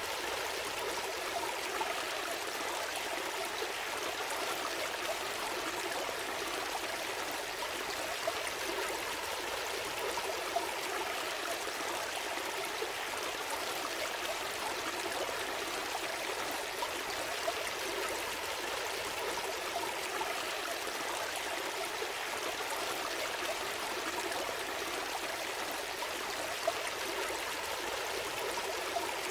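Small forest stream flowing and trickling steadily, a constant rush of water with small splashes.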